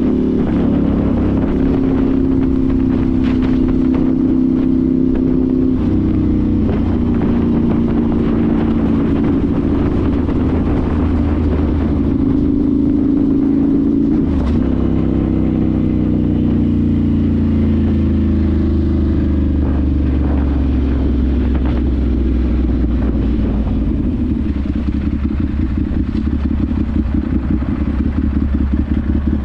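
Ducati Monster 796's air-cooled L-twin engine running through twin Akrapovic silencers on the move, its pitch stepping and sliding up and down with throttle and gear changes. It settles into a low, choppy pulsing near the end.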